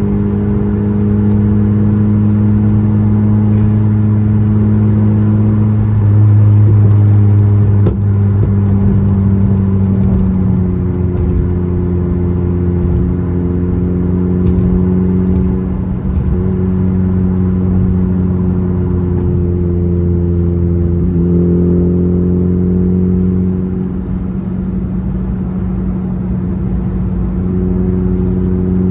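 A car engine running at a steady, held speed: a loud low drone whose pitch shifts a few times, stepping down about a third of the way in and back up later.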